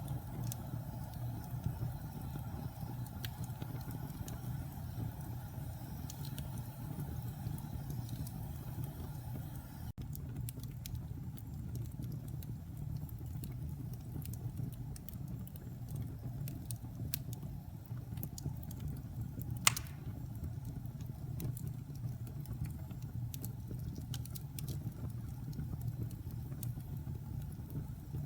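Wood fire crackling in a fireplace: sharp snaps and pops over a steady low rumble of the flames, the crackles coming thicker from about a third of the way in, with one louder pop about two-thirds through.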